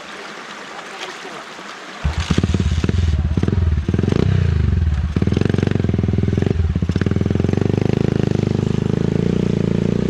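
A small motorcycle engine starts running loud and close about two seconds in, with a rapid pulsing beat. Its pitch rises and falls briefly as it is revved, then it runs steadily.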